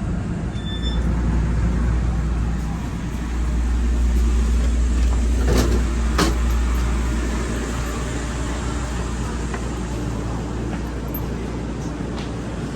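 Steady low rumble of a moving EMU3000 electric train, swelling slightly in the middle, with two sharp clicks a little past halfway.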